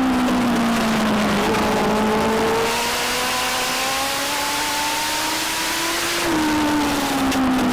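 Legend car's four-cylinder Yamaha motorcycle engine running at racing speed. Its pitch falls off as the driver lifts for a corner, climbs steadily back up down the straight, then drops again about six seconds in at the next corner.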